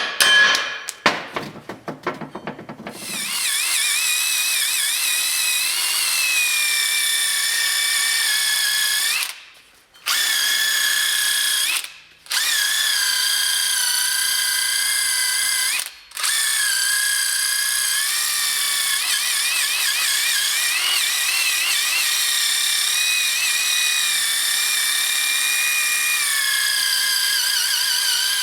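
A few sharp knocks, then a 3/8-inch air tool running in long spells with a high, wavering whine as it turns the screw of a ball joint press, pressing new wheel studs into a truck axle flange. It stops briefly three times along the way.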